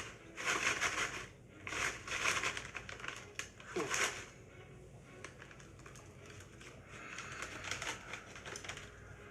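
Chip bag crinkling as it is handled, in three short bursts over the first four seconds, then only faint background.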